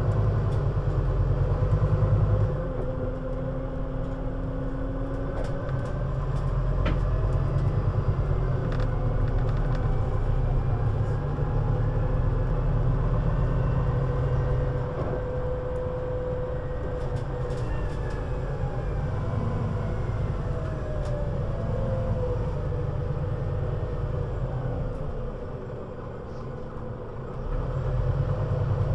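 Scania CN320UA 6x2/2 articulated city bus, its 320 hp engine running under way, the engine note rising and falling as it pulls away and eases off. It drops quieter about 25 seconds in, then picks up again near the end.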